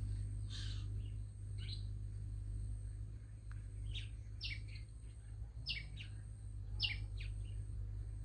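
Small bird giving about seven short, sharp chirps, each a quick downward stroke, spaced unevenly about a second apart, over a steady low hum.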